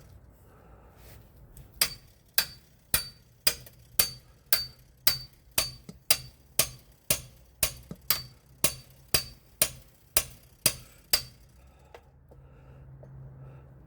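Metal hand tool clicking on a stuck nut: about eighteen sharp, ringing metallic clicks at an even two a second, stopping a couple of seconds before the end.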